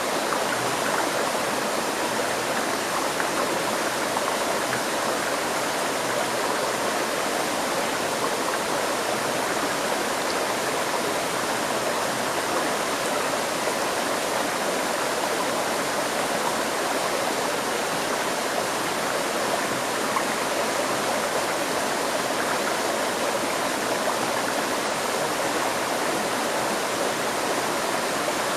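River stream flowing steadily over rocks, a constant rushing and babbling of water.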